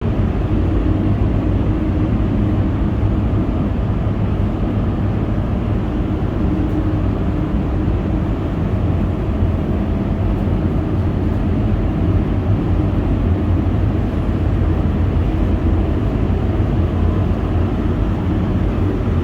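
A steady, unbroken low rumble with no distinct strokes or changes.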